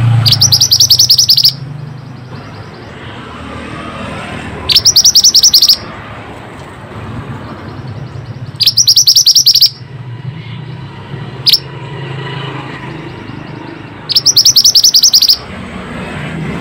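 Mantenan (minivet) bird calling: four loud, high-pitched rapid trills of about a second each, spaced a few seconds apart, with one short single chirp between the third and fourth.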